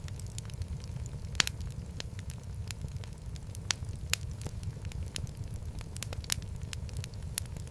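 Wood fire burning in a fireplace: a steady low rumble of flames with sharp, irregular crackles and pops, a couple of them louder than the rest.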